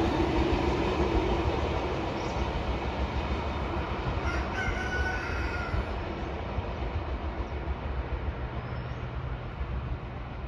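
Express train passing on the track and moving away, the wheels' rumble steadily fading. A brief high, wavering sound rises over it about four and a half seconds in.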